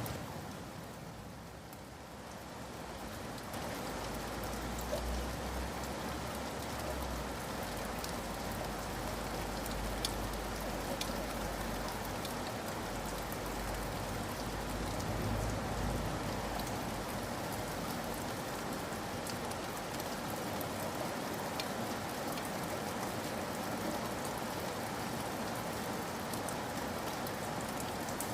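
Steady rain falling on a surface, with individual drops tapping sharply here and there. It dips briefly in the first few seconds, then builds back, and a low rumble sits underneath through the middle.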